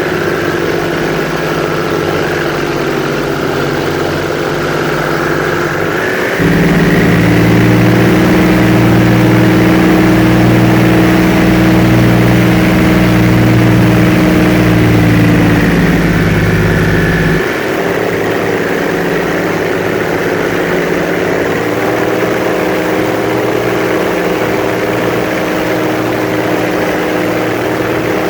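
Airboat's engine and propeller running steadily and loud. About six seconds in the throttle opens up and the sound gets louder and deeper for about eleven seconds, then it eases back to the earlier level.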